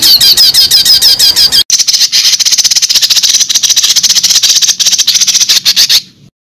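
A bird calling in a fast run of high, sharp chirps, several a second. The sound breaks off abruptly about a second and a half in, resumes, then cuts off to dead silence near the end.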